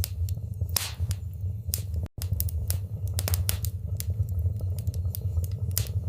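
Fire burning in a fireplace: a steady low rumble of flames with frequent, irregular sharp crackles and pops. A split-second dropout to silence comes about two seconds in.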